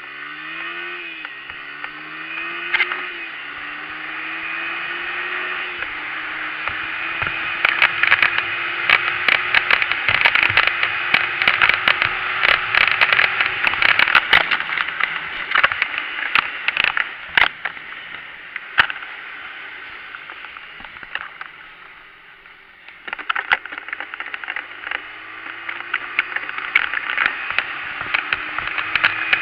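Dirt bike engine pulling through the gears, its pitch climbing and dropping back several times, under heavy wind rush and many sharp clicks and knocks from the ride. Near the end of the run it eases off briefly, then picks up again.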